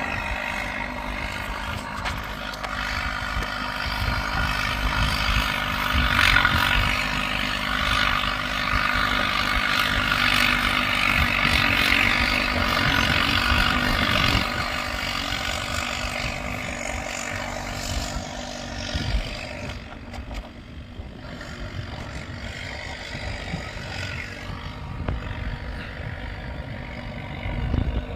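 Bulldozer engine running as it plows a snow trail. It gets louder through the middle and eases off after about two-thirds of the way in.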